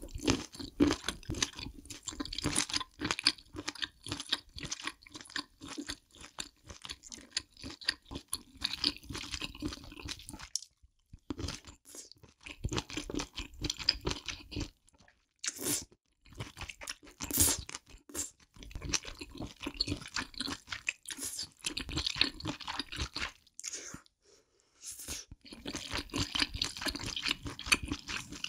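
Close-miked chewing and biting of a spicy braised octopus tentacle, in long runs of mouth noise broken by two short pauses, one about halfway through and one near the end.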